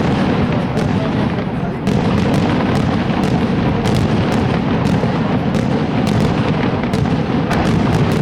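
Fireworks going off in a dense, continuous barrage: rapid overlapping booms with many sharp cracks over a steady rumble, and a brief dip in the noise near the two-second mark.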